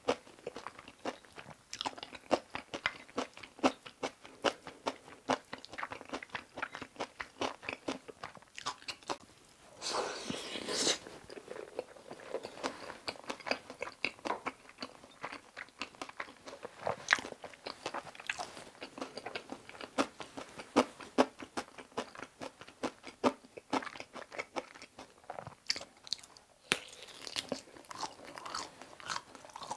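Close-miked chewing of a full mouthful of food: a steady run of quick mouth clicks and crunches, with a short rush of noise about ten seconds in.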